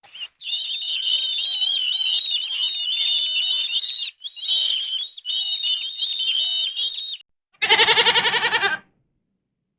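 High-pitched warbling birdsong, continuous with two brief breaks, for about seven seconds. Near the end comes one short, loud, quavering goat bleat.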